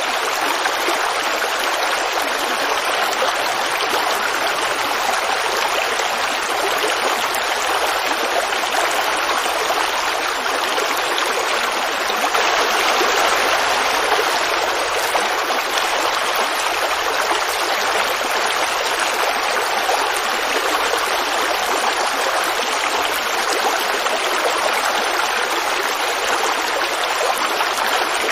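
Creek water running and babbling over stones, an even rushing with a slight swell about halfway through.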